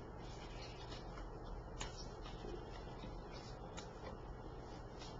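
Tarot cards being handled and put in order: faint sliding of cards with a couple of sharp taps about two seconds apart.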